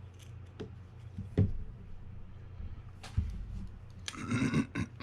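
Small metal reel screws being handled and set down on a work surface: a few scattered light clicks and taps, the sharpest about one and a half seconds in, then a short burst of clicking and rustling near the end.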